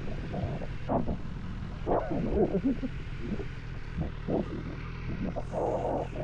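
Car engine running with a steady low drone, heard from inside the car, with irregular louder rumbling bursts over it several times.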